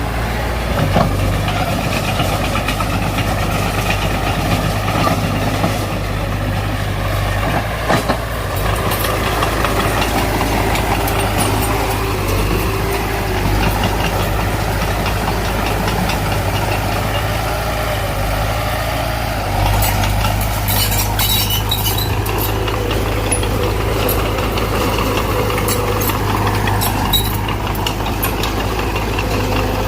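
Diesel engine of earthmoving machinery running steadily, with a brief run of sharp metallic clicks about two-thirds of the way in.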